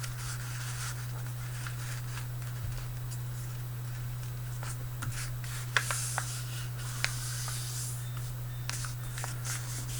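A sheet of paper being folded and creased by hand: a few crisp rustles and clicks just past the middle, over a steady low hum.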